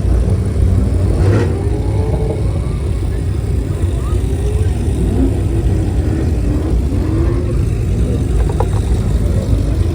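Car engine revving up and down over a steady, deep low rumble.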